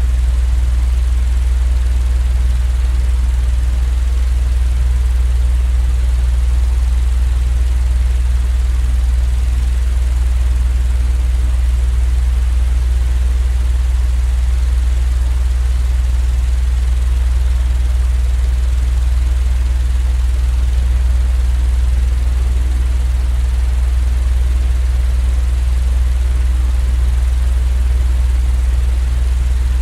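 Steady, unchanging low rumbling noise from a sleep-noise track, heaviest in the deep bass with a faint hiss above.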